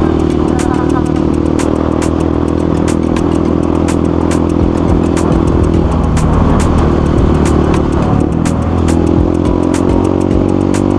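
Motorcycle engine running steadily under way. Its note breaks off briefly about six seconds in and again around eight to nine seconds, then settles back to an even pitch.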